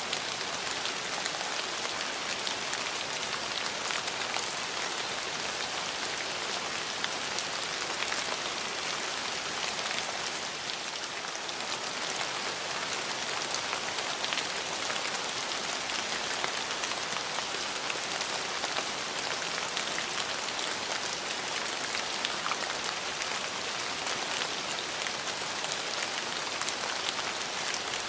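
Steady rain falling, a dense even hiss of drops with fine individual drop ticks on hard surfaces.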